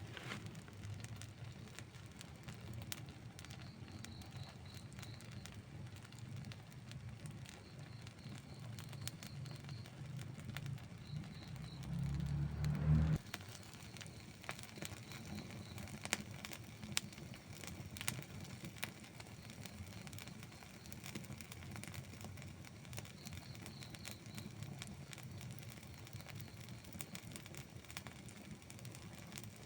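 Wood fire crackling, with scattered sharp pops over a low steady rumble. About halfway through, a louder low rumble swells for a second or so and cuts off suddenly.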